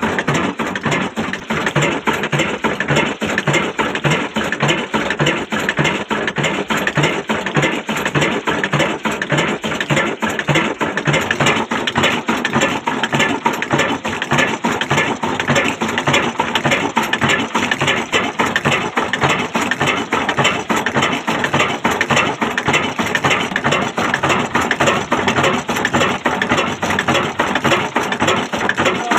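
Old Ruston & Hornsby diesel engine running steadily, with an even, regular beat of firing strokes.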